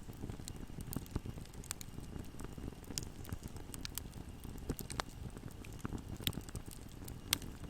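Wood fire burning in a fireplace: a steady low rumble under irregular crackles and sharp pops, a few louder snaps scattered through.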